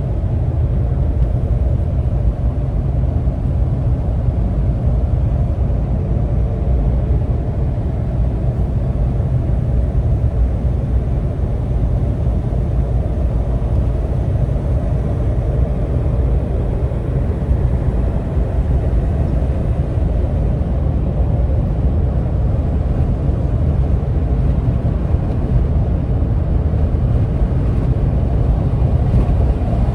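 Steady low rumble of a vehicle on the move: engine and road noise, even throughout with no sudden sounds.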